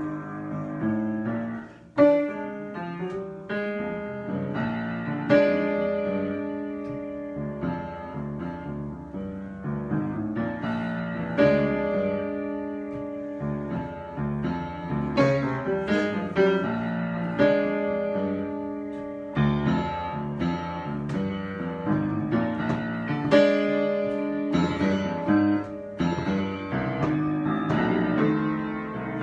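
Solo piano improvising: sustained chords with melody notes picked out above them, unhurried, with a loud chord struck about two seconds in.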